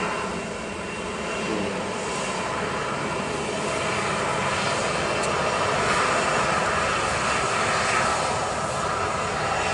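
Passenger airliner's engines close by: a loud, steady rushing roar that grows a little louder through the middle.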